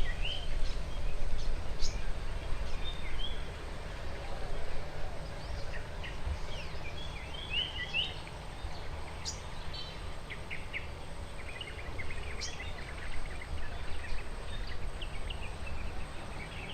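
Several wild birds chirping and twittering in quick, scattered short notes, thickest at the start and again near the end, over a steady low rumble of background noise.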